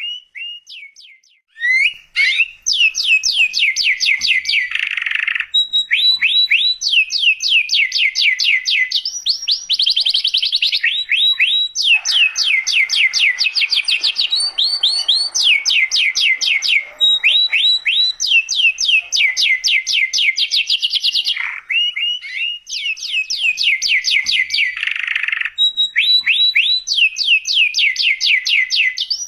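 Domestic canary singing a long, near-continuous song of rapid trills, each a fast run of repeated notes, with only a brief pause just after the start.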